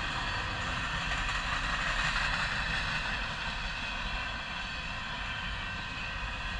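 Freight train of grain cars passing: a steady rolling rumble with thin high ringing tones over it, swelling slightly about two seconds in.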